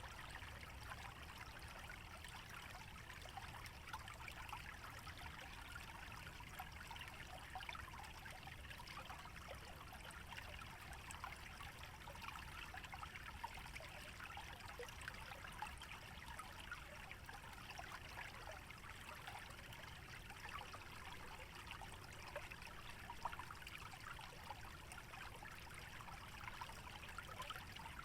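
Shallow stream trickling and babbling through a wetland, a steady flow of small splashes and gurgles. Underneath it runs a low, even rumble.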